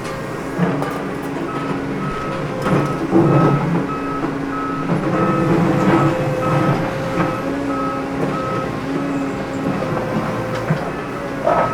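Reversing alarm beeping evenly, about three beeps every two seconds, starting a second or so in. Underneath is a steady motor hum with some knocking and clatter.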